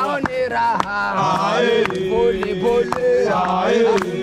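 Voices chanting a sung Swahili song together, held and sliding notes, with sharp knocks roughly every half second.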